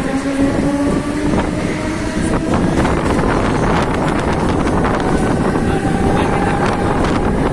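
Mumbai suburban electric local train pulling away and gathering speed: a whine rises slowly in pitch for the first second or so, then gives way to a steady rumble of wheels on track with scattered clicks. Heavy wind rush on the microphone through the open doorway.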